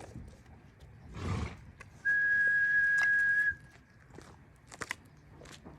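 Dog-training whistle blown as one long steady tone for about a second and a half, the long-tone cue for the dog to lie down. A short rush of noise comes just before it.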